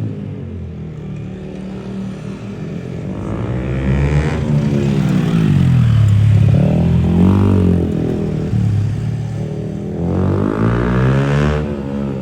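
Motorcycle engines revving, the pitch climbing and falling again several times.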